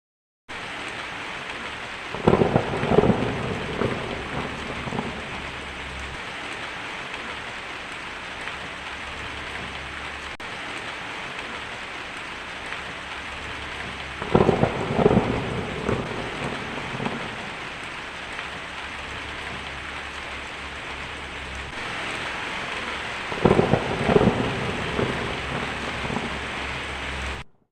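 Steady rain with three rolls of thunder: one near the start, one about halfway through and one near the end, each swelling up and rumbling away over a few seconds.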